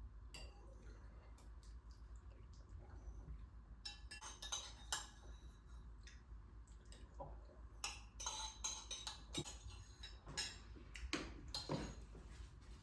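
Faint clinks and clicks of dishes and cutlery being handled, in scattered clusters: a flurry about four seconds in and a busier run from about eight seconds on.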